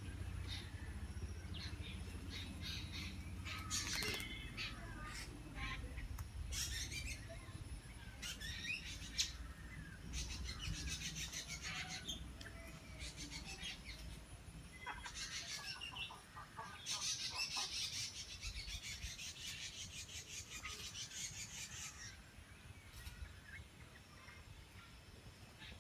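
Wild birds calling in trees: repeated bursts of high, rapid chirps and trills, the longest run about two-thirds of the way through.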